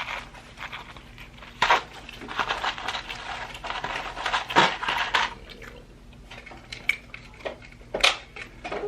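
Eating and food-handling noises from a fried-chicken meal: rustles and small clicks, with sharp knocks about one and a half, four and a half, and eight seconds in.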